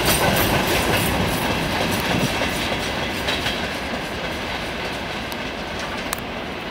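Freight train's wagons rolling past, wheels clacking over the rail joints, the clatter growing steadily fainter as the train draws away.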